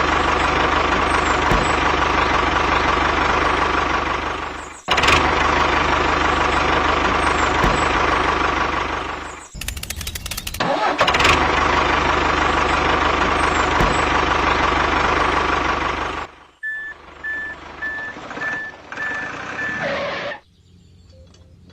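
A motor or engine running steadily, broken by two abrupt cuts. Near the end the running sound gives way to quieter noise with a short high beep repeated about twice a second.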